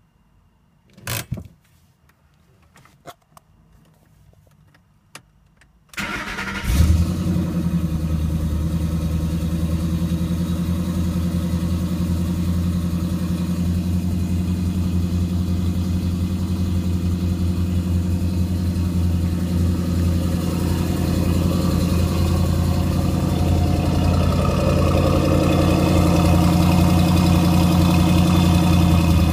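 A few clicks and a thump, then about six seconds in a 2010 Ford Mustang GT's 4.6-litre V8 starts with a brief rev flare and settles into a steady idle. It runs through an off-road H-pipe with no catalytic converters and the factory mufflers, and the idle grows slightly louder toward the end.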